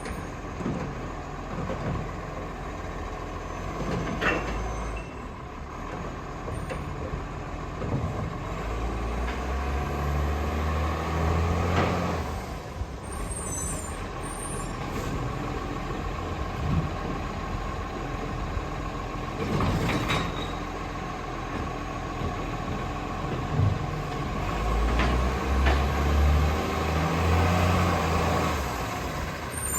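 Garbage truck running, its engine revving up twice for a few seconds each time over a steady whine, with a few sudden sharp noises.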